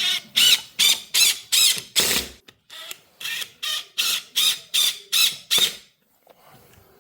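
A tool working in about fourteen short, loud, evenly spaced strokes, roughly two and a half a second, each with a high wavering whine; they stop about six seconds in.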